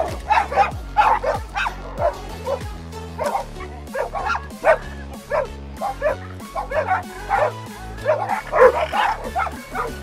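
A dog barking in a rapid string of short barks, about two or three a second, over background music.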